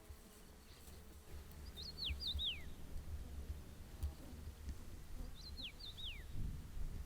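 A songbird singing the same short phrase twice, about three seconds apart, each phrase a few quick falling whistles, over a low steady rumble.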